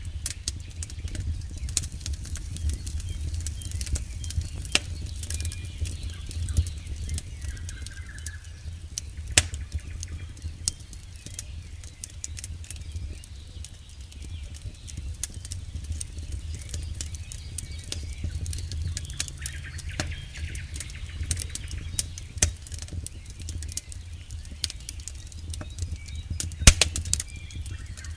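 Campfire burning: wood crackling with irregular sharp pops over a low, steady rumble of flames, with two louder pops, one about nine seconds in and one near the end.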